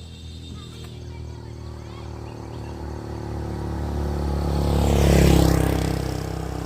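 A motor vehicle drives past close by: its engine hum grows louder to a peak about five seconds in, then fades as it goes away.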